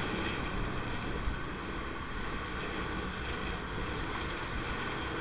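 Steady motor-vehicle and road noise, with a low rumble and wind on the microphone.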